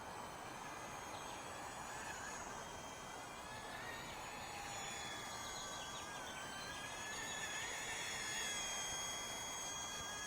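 Blade MSR-X micro RC helicopter in flight: a high-pitched whine from its small electric motors and rotors that wavers up and down in pitch as the power is changed.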